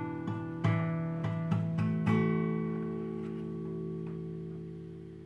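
Guitar strummed in a quick run of chords, then a final chord left ringing from about two seconds in and slowly fading away as the song's closing chord.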